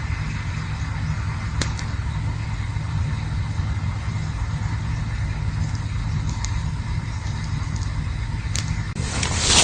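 Campfire burning with a steady low rumble and a few sharp pops from the burning wood, then a louder rush of crackling near the end.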